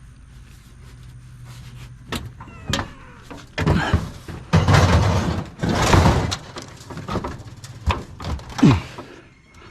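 A large appliance being tipped up on end and shifted into place: a few knocks, then a run of heavy scraping thuds and clanks, loudest about four to six seconds in, with another knock near the end.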